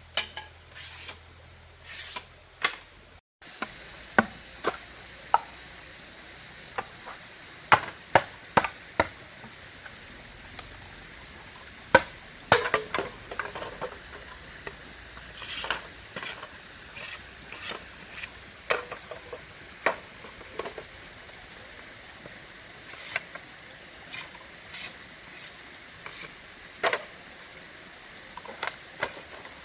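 Irregular sharp knocks and taps, a few every second or two, over a steady high-pitched drone of insects.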